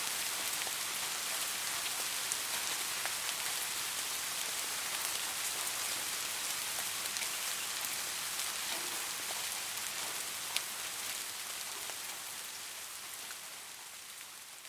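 Soft rain falling steadily, an even hiss with scattered sharper drop taps, one louder tap about ten and a half seconds in. The rain fades out gradually over the last few seconds.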